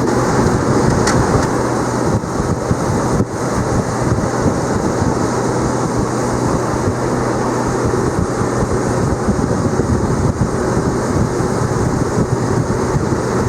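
Boat's outboard motor running steadily at cruising speed, with wind buffeting the microphone.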